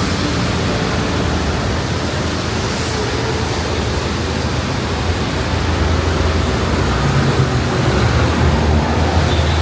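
Steady hiss of heavy rain over a low rumble, growing a little louder in the last few seconds.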